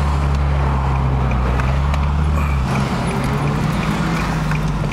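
2009 Infiniti G37S's 3.7-litre V6 at low revs through an MXP exhaust with Berk test pipes, heard from inside the cabin as a steady deep drone. The deepest part of the drone eases off about halfway through.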